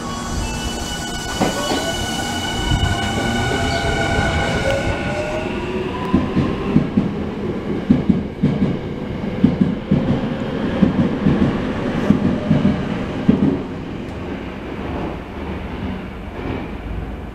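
Tokyo Metro 03 series electric train pulling out along the platform. A rising motor whine builds over the first few seconds as it accelerates, then wheels clatter rhythmically over the rail joints for several seconds before fading as it leaves.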